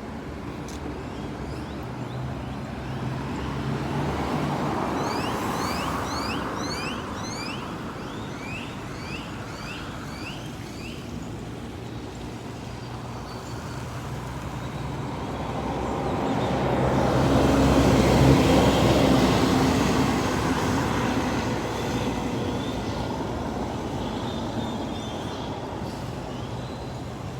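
Road traffic running steadily, with vehicles swelling past twice, the louder about eighteen seconds in. Between about five and eleven seconds in, a bird calls over it in a quick series of short rising chirps.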